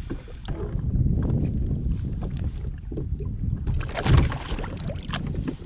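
Wind buffeting the microphone on a fishing kayak, with scattered small clicks and knocks of handling and one loud thump about four seconds in.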